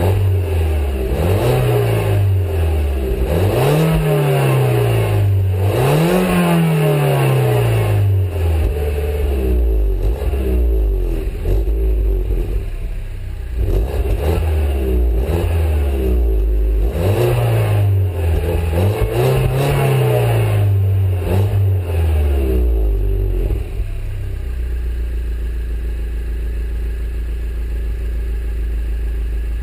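Peugeot 208 GTi's turbocharged 1.6-litre four-cylinder through its original exhaust, revved again and again, its pitch climbing and falling back with each blip, then settling to a steady idle for the last few seconds.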